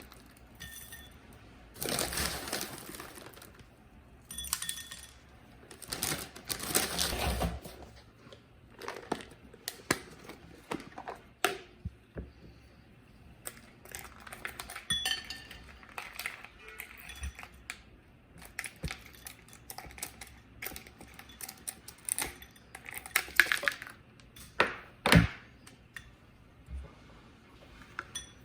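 Assorted small clinks, clicks and knocks of household objects being handled, with a few short stretches of rustling noise in the first several seconds and a sharper knock near the end.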